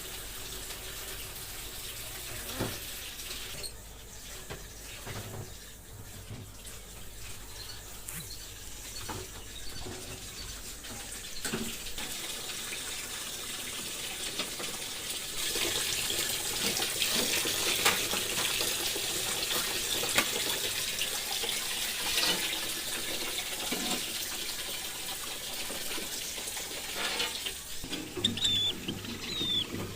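Water running from a tap into a sink while fridge containers are washed, with scattered knocks and clatters; the flow becomes stronger about halfway through.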